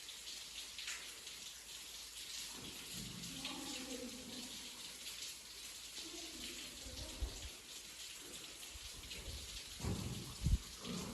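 Steady patter of dripping water, with a few low thumps near the end.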